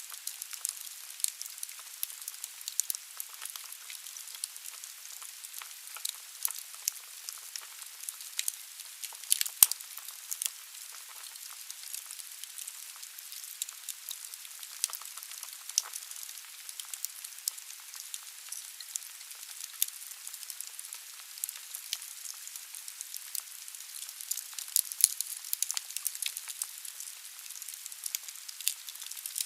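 Wood fire burning in a fireplace: logs crackling and popping irregularly over a soft hiss, with one sharp loud pop about a third of the way in and a cluster of louder cracks near the end.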